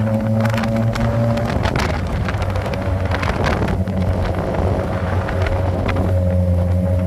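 Suzuki GSX-R SRAD sport motorcycle's inline-four engine running at a steady cruise, its note easing off about a second and a half in and firming up again near the end, with wind buffeting on the microphone.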